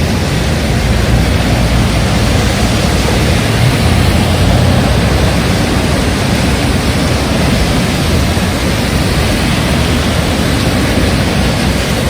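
Heavy rain falling in strong wind: a steady loud rushing hiss, with wind buffeting the microphone in deep gusts that are heaviest in the first half.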